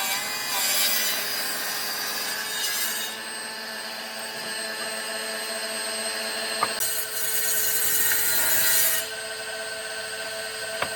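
A power tool working wood: a steady motor hum under a rasping, scraping sound that swells and eases as the tool bites into the wood.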